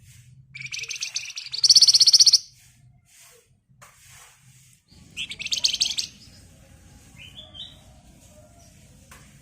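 Javan fulvetta (wergan Jawa, called flamboyan by bird keepers) singing two dense, rapid rattling trills, the first loudest, then a few short rising notes. A faint low hum runs underneath.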